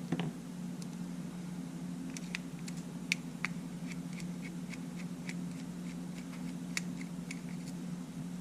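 Small, sharp clicks and taps of tools and tiny parts being handled during the disassembly of a camera: a soft knock at the start, then a loose run of ticks a few per second from about two seconds in, over a steady low hum.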